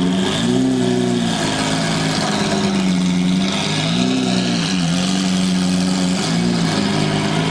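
A car engine idling steadily, with two short blips of the throttle, one about half a second in and one near the middle, where the pitch rises and drops back.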